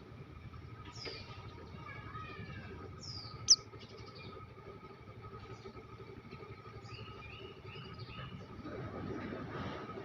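Small songbirds chirping: short high notes sliding downward repeat about once a second, with one sharp, much louder chirp about three and a half seconds in and a quick run of four lower notes around seven seconds in. A faint steady hum runs underneath.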